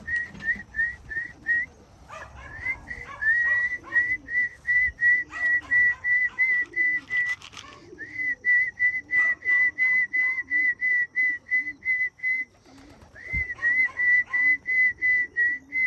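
A person whistling to call homing pigeons back to the loft: runs of short notes at one pitch, about three or four a second, broken by a short pause every few seconds.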